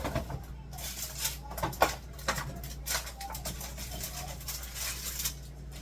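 Food containers being handled, taken out and set down one after another: an irregular run of knocks, clinks and rustles, with the sharpest knock about two seconds in.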